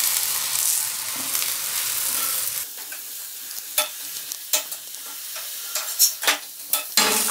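Corn-flour roti sizzling in ghee on a tawa, a steady hiss for the first few seconds. Then the sizzle drops away and a steel spatula scrapes and taps against the tawa several times as the roti is worked loose and lifted.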